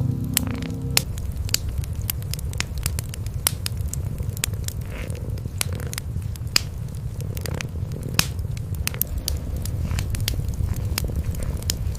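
Cats purring in a low, continuous rumble, with a wood fire crackling over it in sharp, irregular pops.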